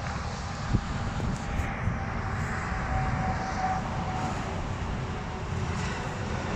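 Steady drone of an aircraft engine: a continuous low rumble and hiss with a faint steady whine.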